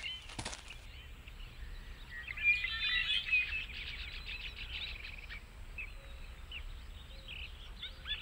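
Birds chirping and twittering as background ambience, busiest from about two to four seconds in.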